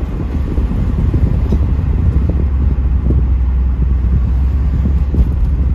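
1984 Pontiac Trans Am driving, with a steady low engine and road rumble heard from inside the car.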